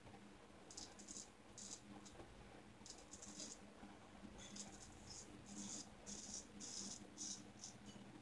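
Shavette razor with a Gillette Wilkinson Sword blade scraping through lathered stubble in a series of short, faint strokes.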